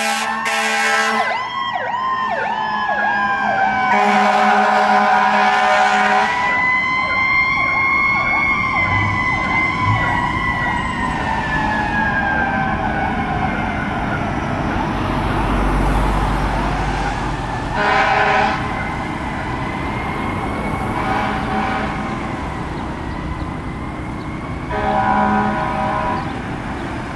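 Fire engine and ambulance sirens as they respond: one siren's pitch rises slowly and then falls away over about ten seconds, with fast electronic sweeps over it. Three horn blasts, a long one about four seconds in and two short ones later.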